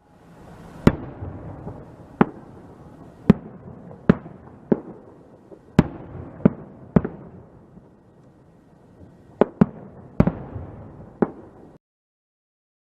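Fireworks going off: about a dozen sharp bangs at irregular intervals over a faint, steady background noise. The sound cuts off abruptly near the end.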